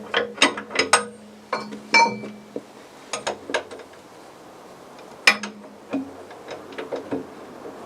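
Steel tools and bolts clinking and clicking irregularly: a heavy socket, breaker pipe and track-roller bolts knocking together as the loosened roller bolts are worked off. The sharpest single clink comes about five seconds in.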